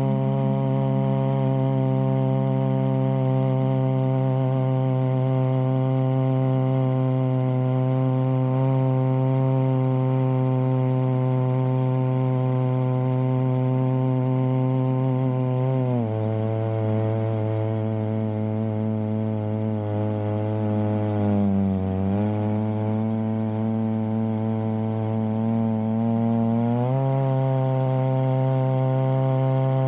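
Chainsaw running at high speed through a long milling cut, one steady engine note. About halfway through its pitch drops and sags lower for about ten seconds, then climbs back to full speed near the end.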